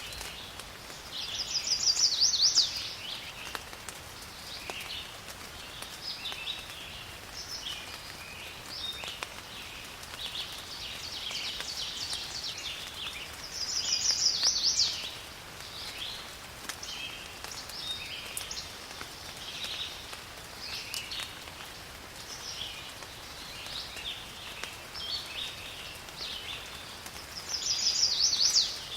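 Rain falling in a forest with many birds calling. One louder bird call, a quick run of notes, comes three times, about 13 seconds apart.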